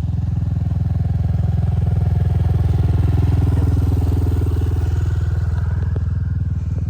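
Small engine running steadily close by with a fast, even firing pulse, swelling slightly in the middle.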